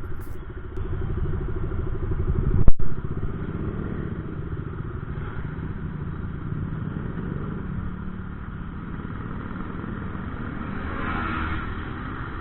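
Motorcycle engine running under way, with one sharp, loud knock a little under three seconds in.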